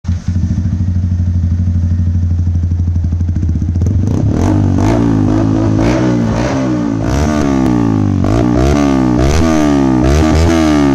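Yamaha R15 V3's single-cylinder engine through a custom aftermarket exhaust, idling steadily, then revved in quick repeated throttle blips from about four seconds in, each rise in pitch dropping straight back, with sharp cracks among the blips.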